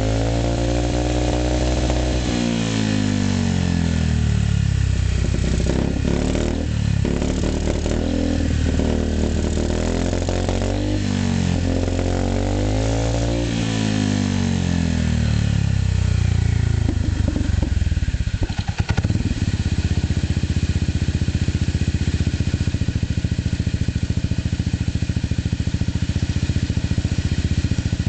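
Yamaha Majesty 250C scooter's single-cylinder engine revved up and down about five times, then settling to a steady idle about two-thirds of the way in.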